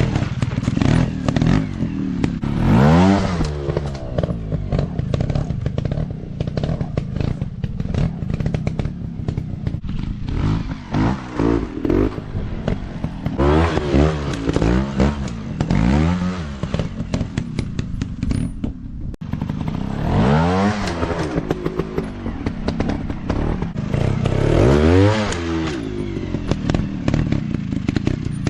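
Dirt bike engine revving hard and easing off again and again, the pitch climbing and dropping with each burst of throttle.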